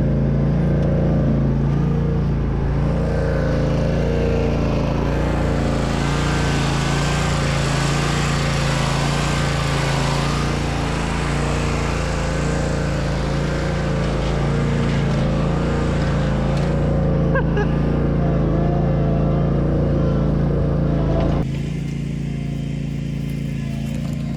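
Riding lawn mower engine running steadily under load while towing a truck chassis. Its level drops abruptly near the end.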